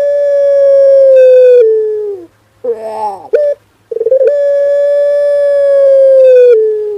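Male puter pelung, a long-voiced Barbary dove variety, cooing: a long drawn-out coo held for about two seconds that steps down in pitch at its end, a few short rising-and-falling notes, then a second long coo that sinks slightly before breaking off near the end.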